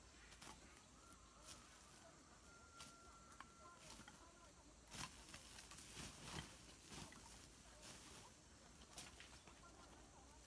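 Faint scattered clicks and taps, a few closer together about five to seven seconds in, with a brief thin steady tone about three seconds in.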